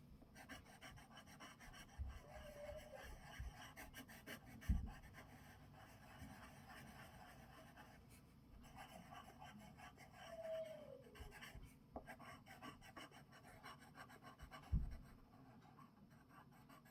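Coloured pencil scratching back and forth on paper while a drawing is coloured in, a continuous run of faint quick strokes. Two soft low thumps come about five seconds in and again near the end.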